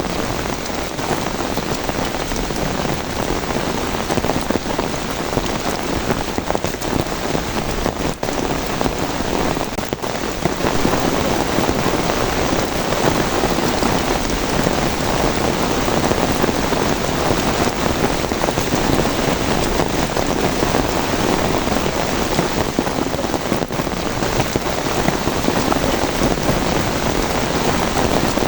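Steady heavy rain falling, a dense continuous patter that grows a little louder about a third of the way in.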